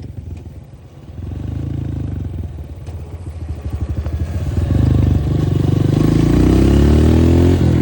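Dirt bike engine heard from the rider's helmet: it drops back to a low run early on, then the rider opens the throttle and it revs up, the pitch climbing steadily toward the end.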